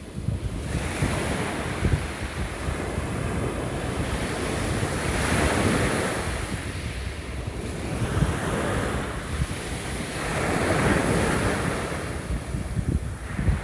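Small waves breaking and washing up the shore, one swell about every three to four seconds, with wind rumbling on the microphone.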